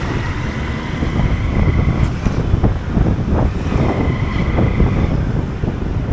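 Motorcycle riding along, its engine rumble mixed with wind buffeting the microphone, and a faint high tone coming and going twice.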